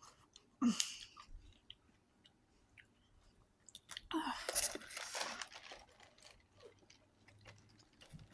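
Close-up crunching and chewing of crisp raw vegetable sticks: a short crunchy bite about a second in, then a longer stretch of crunching around four seconds in, with small wet chewing clicks between.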